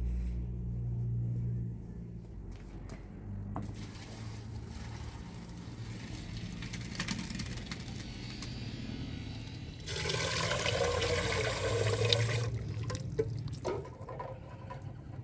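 Water being poured and splashing. It builds gradually and is heaviest for about two and a half seconds in the latter part, then stops abruptly, followed by a few small knocks.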